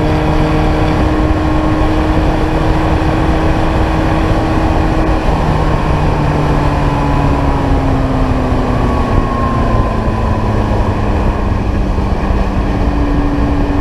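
Ariel Atom's engine running hard, heard onboard over heavy wind noise. Its note holds steady for about five seconds, then falls over several seconds as the car slows, and climbs again near the end.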